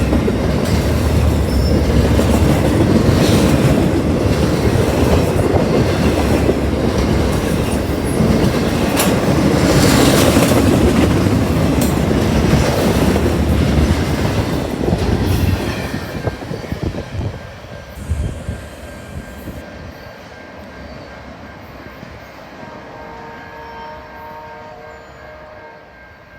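A train passing close by, its wheels clattering over rail joints, then the sound fading away as the train moves off over the last ten seconds.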